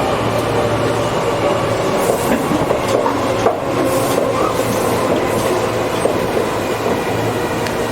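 Tobu 8000 series electric train running, heard from inside the passenger car: steady wheel and motor rumble with a hum that slowly sinks in pitch, and a few clicks of the wheels passing rail joints.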